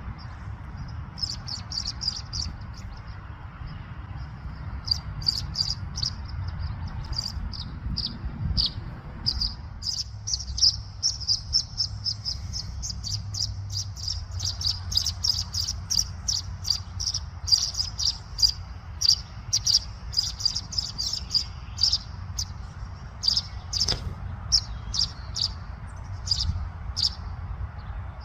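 Tree swallow twittering: a long run of short, high chirps in quick series, thickest in the middle, over a steady low background rumble.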